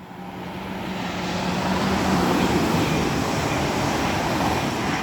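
Class 800 IET train passing the bridge at speed: a rushing noise that builds over the first couple of seconds and then holds, with a steady hum that fades out about halfway through.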